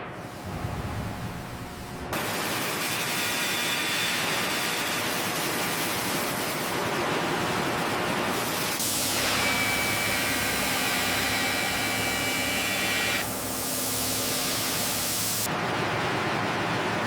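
Steady, loud rushing hiss of heavy industrial work noise. It changes character abruptly several times, and a faint high whine runs through the middle.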